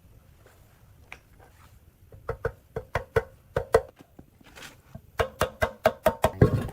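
Repeated sharp knocks, each with a short ringing tone, like blows on a metal part. They start about two seconds in at roughly three a second and come faster near the end.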